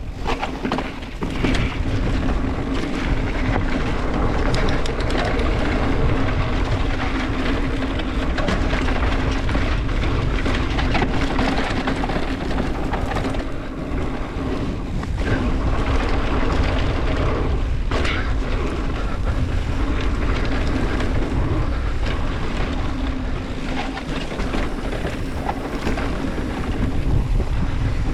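Mountain bike running down a dirt trail: a steady rush and rumble of wind and tyre noise, with scattered clicks and rattles and a steady hum throughout.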